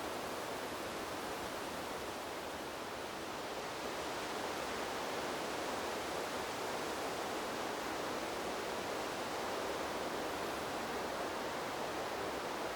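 Wind blowing through a bamboo grove: a steady, even noise that grows a little louder about four seconds in.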